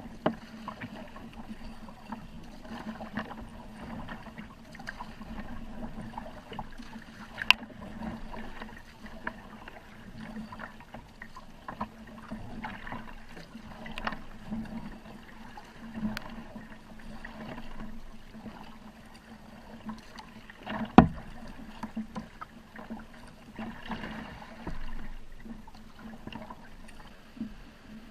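Kayak being paddled: water splashing and lapping unevenly with the paddle strokes, with a few sharp knocks, the loudest about 21 seconds in.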